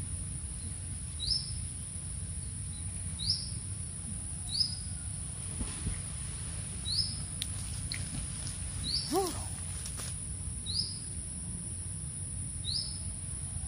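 A bird repeating a short, high, rising chirp seven times, about every two seconds, over a steady high-pitched insect drone. One lower call rises and falls about nine seconds in.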